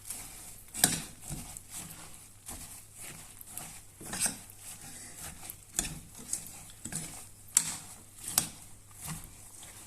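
A utensil stirring puffed rice through melted chocolate in a pan, making irregular scrapes and sharp clinks against the pan.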